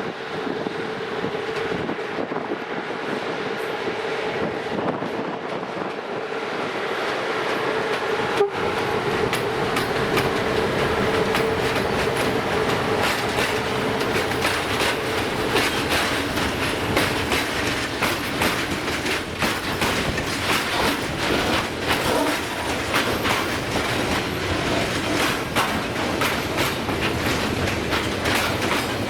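Train passing on the track: a steady tone over the first half as it draws near, then wheels clicking rapidly over the rail joints as the cars run by, growing louder about eight seconds in.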